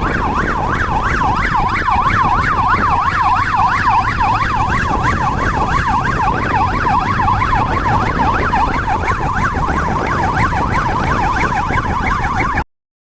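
Police electronic siren in a fast yelp, its pitch sweeping up and down three or four times a second, over low engine and road rumble. It cuts off suddenly near the end.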